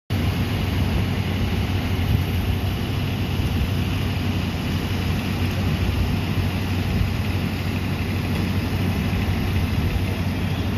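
An engine idling steadily, a continuous low hum with no change in speed.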